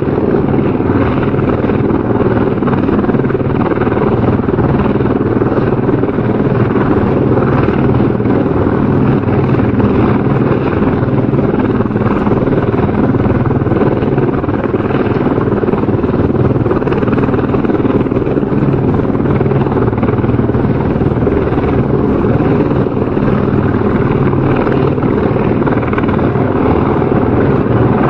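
Helicopter rotor and engine noise, a steady drone.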